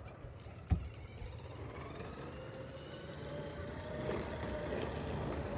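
Child's electric motorbike running: a faint steady low rumble with a thin motor whine that rises and then falls in pitch. A single knock comes just under a second in.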